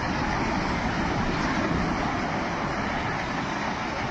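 Fast floodwater rushing in a torrent, a steady, even noise with no breaks.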